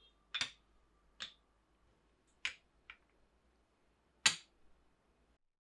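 About six sharp, separate clicks of small hard objects knocking, irregularly spaced, the loudest about four seconds in.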